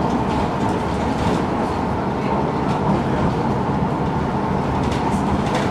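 MAN NG 313 articulated diesel city bus running steadily: an even rumble of engine and road noise with a thin, steady whine over it.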